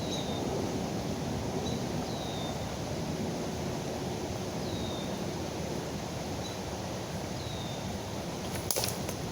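River water rushing steadily, with a bird repeating a short, high, down-slurred call every second or two. A few sharp clicks near the end.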